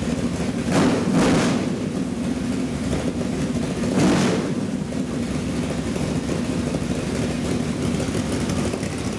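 Chevrolet 502 big-block V8 crate engine with aluminium heads, running steadily and blipped on the throttle three times: twice close together about a second in, once about four seconds in.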